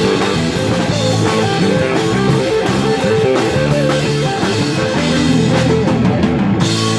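Live rock band playing an instrumental passage: electric guitar over a drum kit, with sustained chords and a steady beat.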